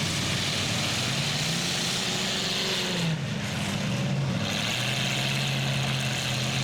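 Demolition derby truck and SUV engines running, their pitch rising and falling as they rev, under a steady hiss.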